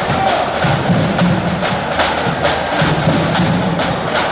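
Marching flute band playing, with sharp snare drum strikes on a steady beat of about three to four a second over bass drum.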